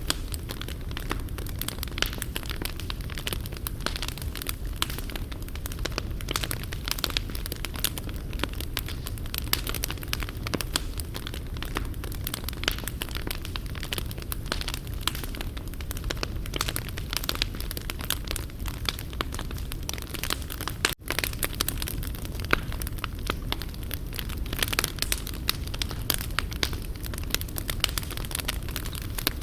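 Wood fire crackling and popping steadily, with dense irregular snaps over a low rumble of flame. About two-thirds of the way through it drops out for a moment.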